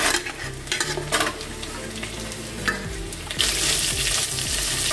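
Small onions, ginger and tamarind going into a kadai of garlic and dried red chillies frying in sesame oil, with a few scrapes and clicks of the spatula against the pan. A steady sizzle comes up louder about three and a half seconds in as the mixture is stirred.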